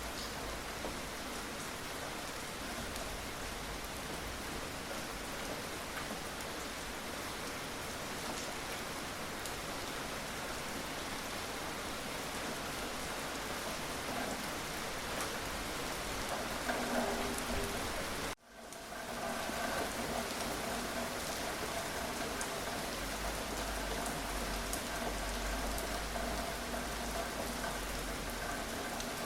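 Steady rain falling, an even hiss of drops. About two-thirds of the way through the sound cuts out for a split second and returns, after which a faint steady hum of several tones sits under the rain.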